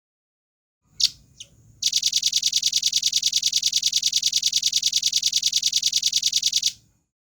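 Velvet-fronted nuthatch (rambatan paruh merah) giving two sharp high call notes, then a fast, even trill of rapid repeated notes, about ten a second, that runs for about five seconds and stops.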